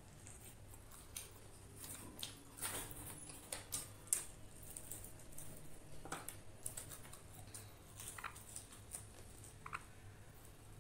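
Faint, irregular crunching and mouth clicks of someone chewing crispy fried chicken with a cornflour-and-oat crust, with a few louder crunches.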